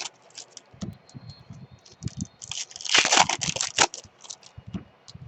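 Trading-card pack wrappers crinkling and tearing as packs are opened, with scattered small clicks and a louder burst of crinkling in the middle.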